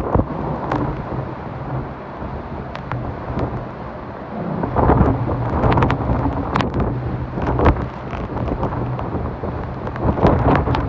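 Hurricane-force wind buffeting the microphone in gusts, swelling about four and a half seconds in and again near the end, with scattered sharp clicks and a steady low hum underneath.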